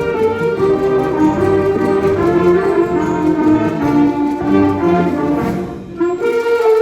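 Symphonic wind band playing live, sustained brass and woodwind notes carrying a melody. The sound dips and nearly stops briefly about six seconds in, then the band comes back in.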